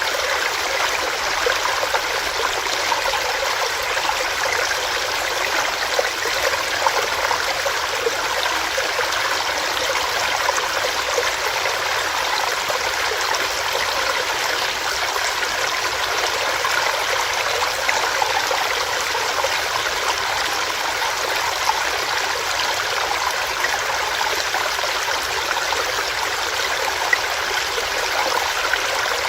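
Small rocky stream with water running and splashing over rocks, a steady, unchanging rushing.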